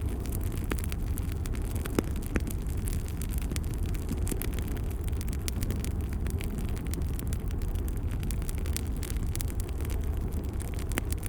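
Wood fire crackling in a fireplace: a steady low rumble of flames with frequent sharp pops and crackles, the loudest pop about two seconds in.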